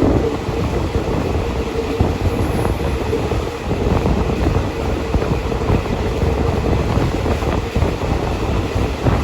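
Passenger train running, heard from on board: a steady rumble with many short rattles and clicks from the wheels on the track, and a steady hum underneath.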